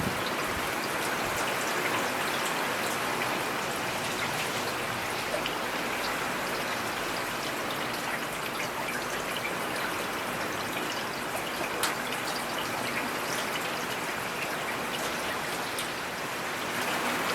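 Steady rain falling, with scattered single drops striking sharply through it.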